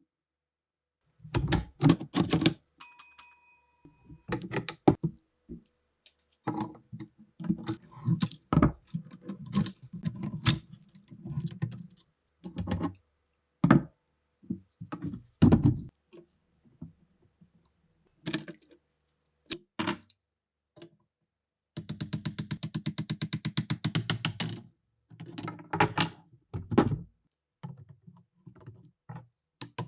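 Metal parts of a rusty Mauser K98 rifle being handled and worked: a long series of clicks, clacks and knocks, with a short metallic ring about three seconds in and a fast, even run of rattling clicks, like a ratchet, from about 22 to 25 seconds.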